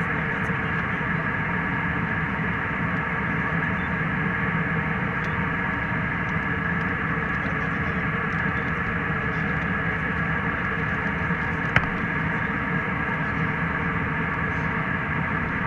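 Steady cabin noise of a jet airliner in flight, an even rushing drone with no change in level, broken once by a short sharp click about twelve seconds in.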